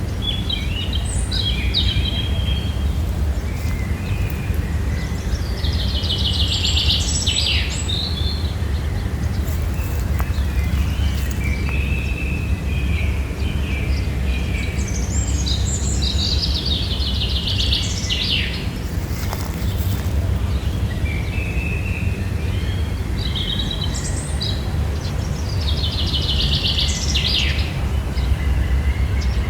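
A songbird singing the same chirping phrase three times, each ending in a fast trill, over a steady low rumble.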